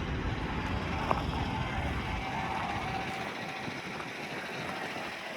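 Outdoor background noise: a low rumble that fades away about two seconds in, under a steady hiss, with a single click about a second in.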